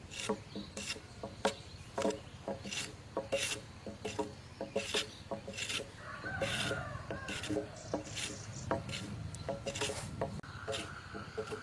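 A hand tool working wood with rhythmic rasping strokes, about three every two seconds.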